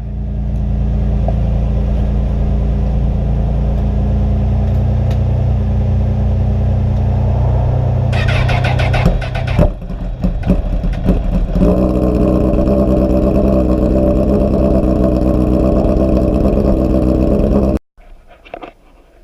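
Engine idling steadily as it warms up. Its note changes about eight seconds in and settles into a different, higher steady tone from about twelve seconds, then cuts off suddenly near the end.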